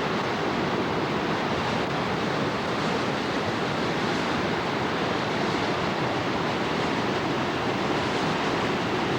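Rushing floodwater of a swollen river running high under a bridge: a steady, even rush of churning water.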